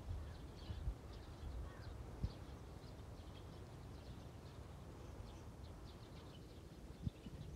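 Faint bird chirping, many short high calls scattered throughout, over a low steady rumble, with a soft knock about two seconds in and another near the end.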